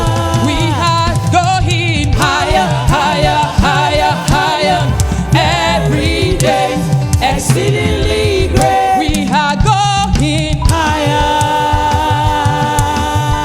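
Gospel music: a church choir singing a praise song, with voices moving between phrases and then settling into long held notes near the end.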